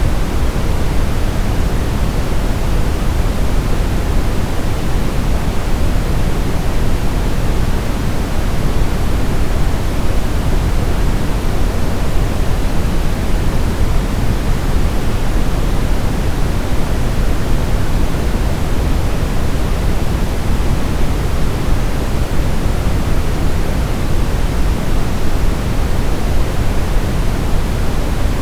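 Steady generated sleep noise of the white-noise kind: an even, unbroken hiss, deeper than pure white noise, strongest in the low range and thinning toward the highs, with no change in level.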